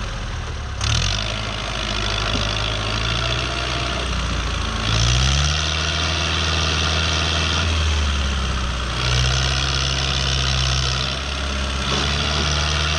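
Fiat 640 tractor's diesel engine labouring under load as it tries to pull a heavy loaded trolley. It revs up about five seconds in, eases off, then picks up again twice, with a rushing noise while it is revved.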